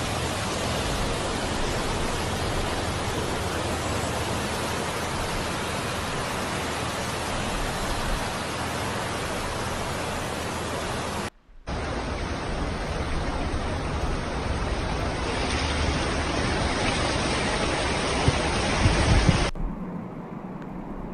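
Rainstorm: a steady rushing hiss of heavy rain and wind. It breaks off briefly about halfway through and drops to a fainter hiss near the end.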